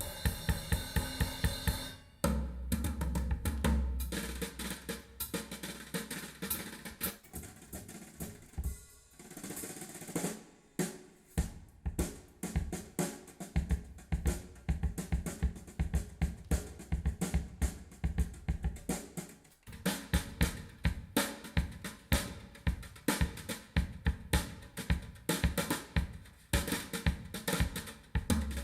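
Drum-kit test music, with hi-hats, cymbals, snare and kick in a steady beat, played back through two-way 16 cm car-audio component speakers and picked up by a recorder. The beat thins out briefly around nine seconds in and again near twenty.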